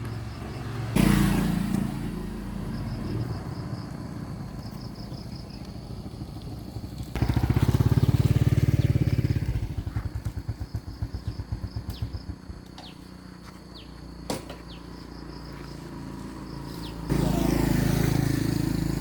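A small motor vehicle engine running in stretches: it comes in about a second in, gets louder around seven seconds with a fast throbbing that slows and fades out by about twelve seconds, and comes back louder near the end, with a sharp click in between.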